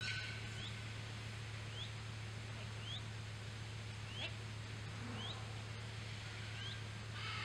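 A bird calling a short, high, rising chirp over and over, about once a second, over a steady low hum.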